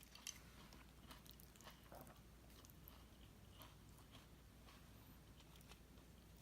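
Faint chewing of a crisp lettuce wrap filled with spicy grilled beef salad: scattered soft crunches and mouth clicks, the sharpest just after the start.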